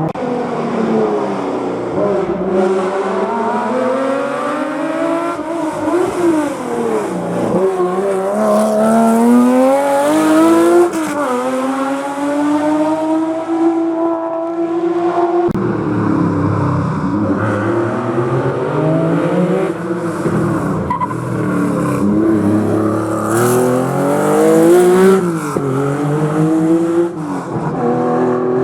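Historic rally car engines revving hard through a hairpin. The pitch climbs through the gears and drops sharply at each shift or under braking. About halfway through the sound changes abruptly to another car doing the same.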